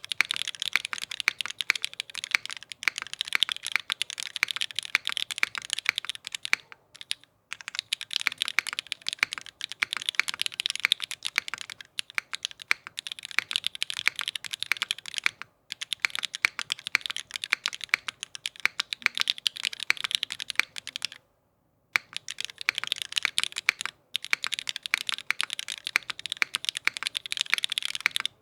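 Typing on an Alchemy AL.6 mechanical keyboard with vintage Cherry MX Black linear switches, an aluminium plate, o-ring mounting and GMK keycaps. A fast, continuous stream of keystrokes, broken by a few brief pauses.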